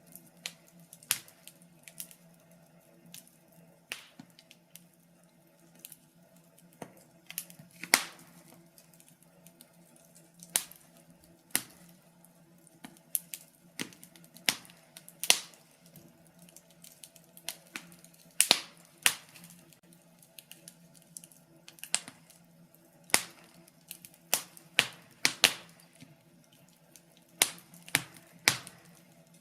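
Wood fire crackling in a fireplace: irregular sharp pops and snaps from burning logs, a few a second with some louder cracks among them, over a faint steady low hum.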